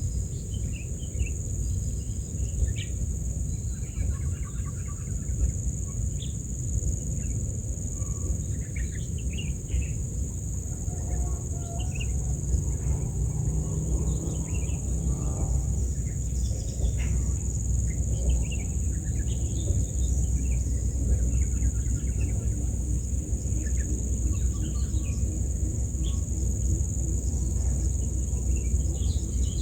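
Steady high-pitched drone of insects, typical of crickets, with scattered short bird chirps and calls over a constant low rumble.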